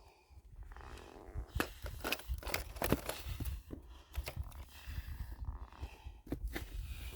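Irregular crunching and scraping with sharp knocks, as of movement over gravel and rock.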